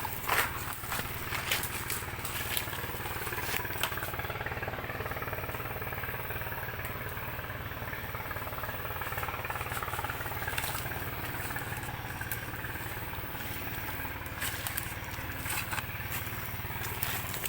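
Small engine running steadily at a constant speed, with scattered clicks and knocks over it.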